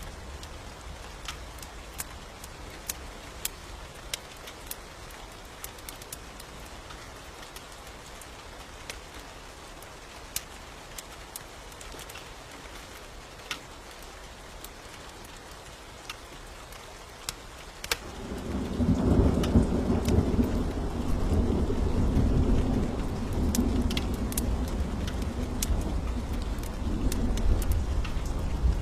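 Steady rain with scattered sharp crackles, then about eighteen seconds in a long, loud rumble of thunder builds suddenly and keeps rolling.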